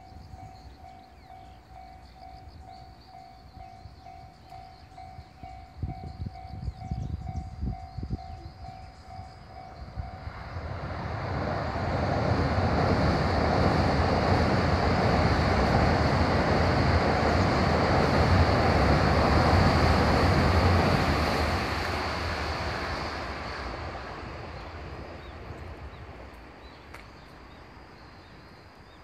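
A JR West Special Rapid electric train crossing a steel truss river bridge: the rumble and clatter of its wheels swell in from about ten seconds in, stay loud for around ten seconds, then slowly fade away. Before it arrives, a tone pulses steadily about once or twice a second.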